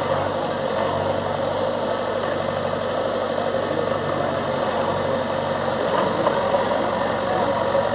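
Bulldozer engine running steadily at a low, even pitch.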